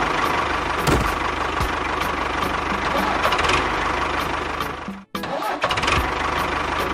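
An engine running with a rapid, steady knocking rhythm. It cuts out abruptly about five seconds in and then resumes at once.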